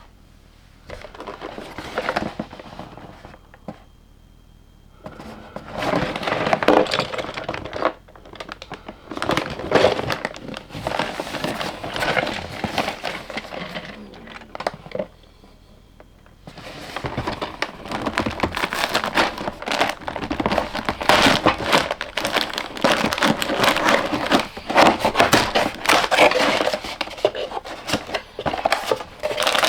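Plastic LEGO parts bags crinkling and rustling as they are handled and opened, with small plastic bricks clicking and rattling, in several bursts with two short pauses.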